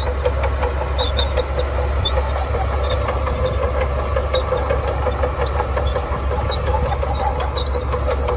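Shantui bulldozer's diesel engine running steadily, with scattered small clicks over it.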